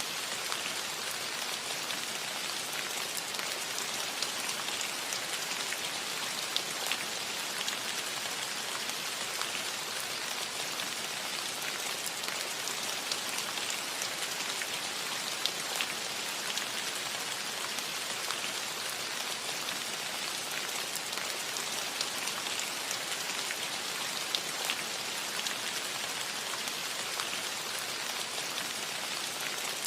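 Steady rain falling on a roof, a constant hiss with many individual drops ticking sharply through it.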